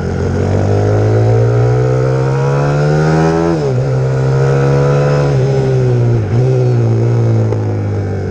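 Pit bike's YX150 single-cylinder four-stroke engine running under way: its pitch climbs steadily for about three and a half seconds, drops sharply, then dips briefly twice more before holding steady.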